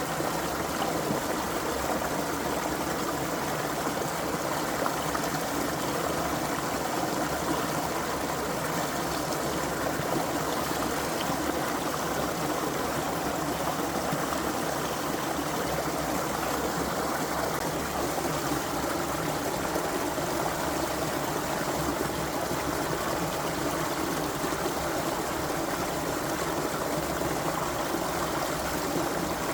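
Creek water flowing over stones, a steady, even rushing and trickling.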